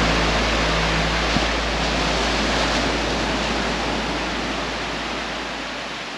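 Steady rush of surf on the beach, fading out slowly.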